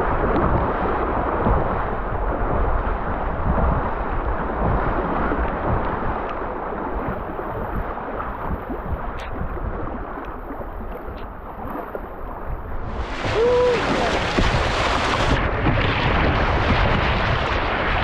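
Steady rushing noise of wind buffeting the microphone over moving river water while kayaking, swelling louder about thirteen seconds in. A short pitched call sounds briefly at about the same moment.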